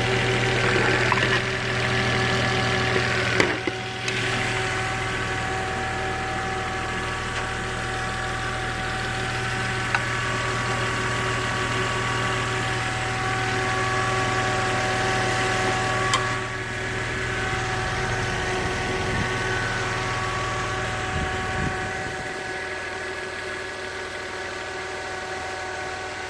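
Volvo XC90's 3.2-litre straight-six idling after a cold start, with a steady whine of several high tones over the engine sound. A low hum drops away near the end.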